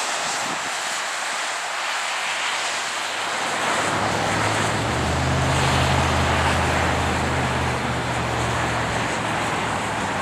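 Wind blowing steadily, with a low engine hum from a passing vehicle or aircraft that rises about halfway through and fades near the end.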